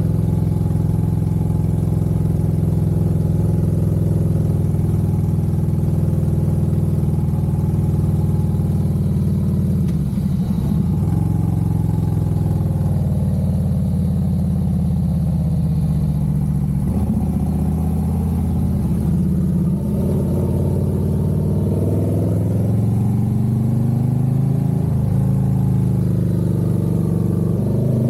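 Harley-Davidson Road Glide's V-twin engine running under way. It holds a steady pitch for about the first ten seconds, then its speed dips and rises several times through the second half.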